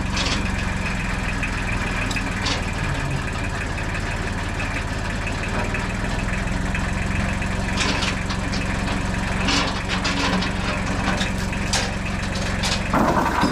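An engine idling steadily, with scattered knocks and clanks over it and a louder rattle near the end.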